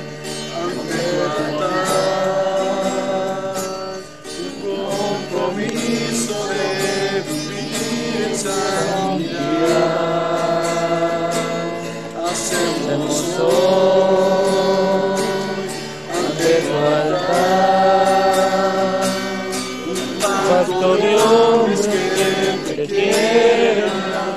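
Worship song sung by a group to acoustic guitar strumming.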